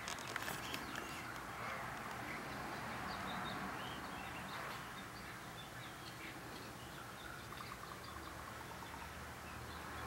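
Faint, scattered chirps of small birds over a steady background hiss.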